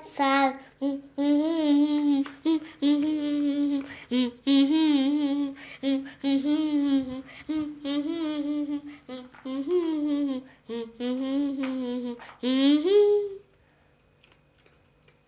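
A child's voice, unaccompanied, sings the last word of a song and then hums the tune in a string of short separate notes. It ends on a rising note about thirteen seconds in, followed by near silence with a few faint clicks.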